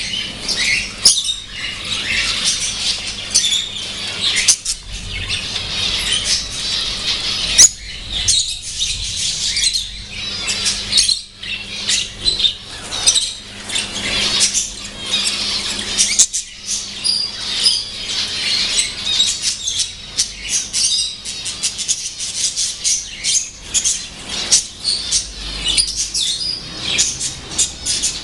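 Lovebirds chirping and chattering continuously, a dense stream of rapid, shrill calls broken by sharper squawks.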